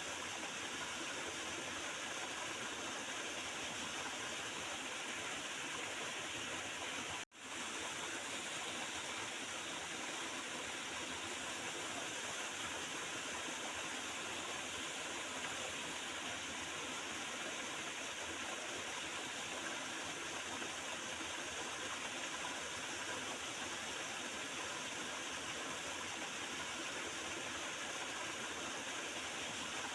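Small river's water running and gurgling steadily. The sound drops out for a split second about seven seconds in.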